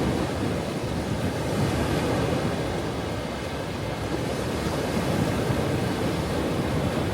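Ocean surf: a steady, continuous rush of waves washing on a shore.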